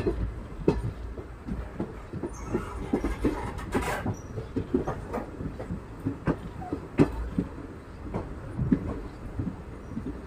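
Express train coach running on the track: irregular clacks and knocks from the wheels over rail joints over a steady low rumble, with a brief louder rush of noise about four seconds in.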